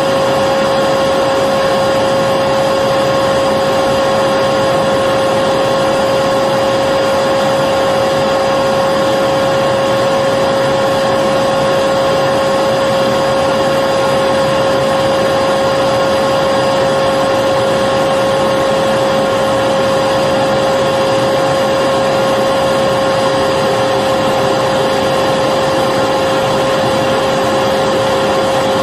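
Electric vacuum cleaner running continuously at one constant speed: a steady rush of air with a steady motor hum, no change in pitch or level.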